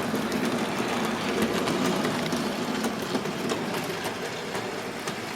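Bachmann J94 0-6-0 saddle tank model locomotive running slowly along the track. Its low-geared coreless motor and wheels make a steady rumble, with faint clicks as it rolls over the rail joints.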